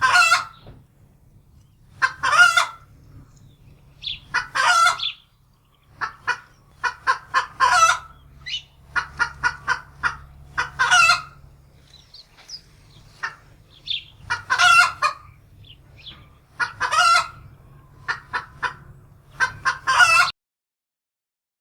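Domestic hen cackling in alarm: runs of quick clucks, each ending in a longer, louder squawk, repeating every two to three seconds and cutting off suddenly near the end.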